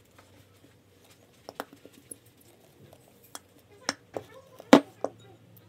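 Scattered light taps and clicks of small objects being handled, with one louder knock about three-quarters of the way through.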